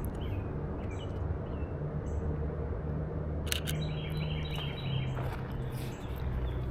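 Small birds chirping and calling, with a busier run of quick calls about halfway through, over a steady low background rumble.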